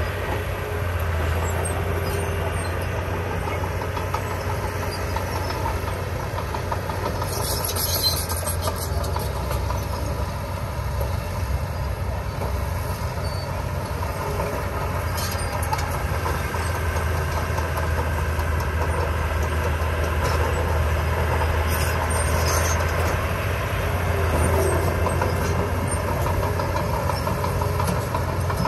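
Diesel engine of heavy earthmoving machinery running steadily under a low, even hum, with a few short metallic clanks.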